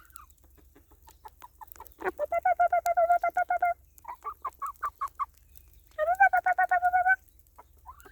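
Domestic hens clucking in quick runs of short, repeated calls: a rapid run of about a second and a half, a slower string of separate clucks, then another rapid run about six seconds in. The hens are fussing at the snow in their coop.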